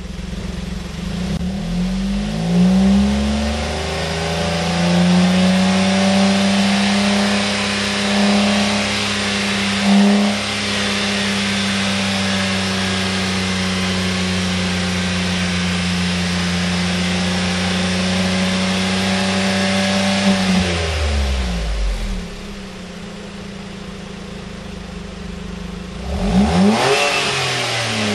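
Suzuki Alto HA36S's turbocharged 660 cc three-cylinder engine sounding through a KC Technica GT 'Street' stainless aftermarket muffler: revved up and held at steady high revs for about twenty seconds, then dropping back to idle, with one quick rev blip near the end.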